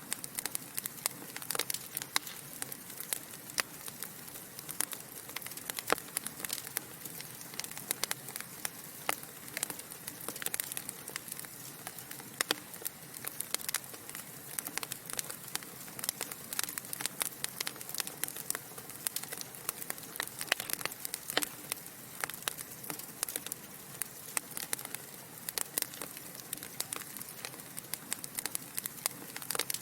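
Wood fire burning in a fireplace, with a steady soft hiss under frequent irregular sharp crackles and pops from the burning logs.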